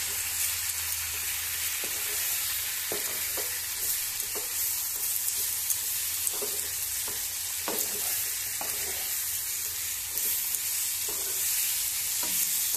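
Carrot and radish sticks sizzling in hot mustard oil in a nonstick frying pan, stirred with a slotted spatula that scrapes the pan at irregular moments, every second or so, over a steady sizzling hiss.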